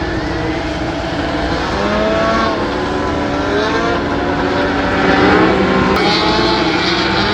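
Several sport-truck race engines running hard together, their pitches overlapping and rising and falling as the trucks accelerate and back off through the turns, with the sound swelling a little about five seconds in.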